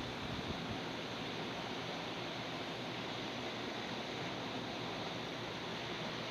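Airplane noise: a steady, even rush with a faint low hum underneath.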